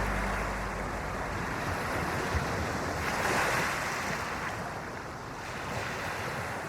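Ocean surf washing onto a beach: a steady rush of waves that swells about three seconds in and again near the end.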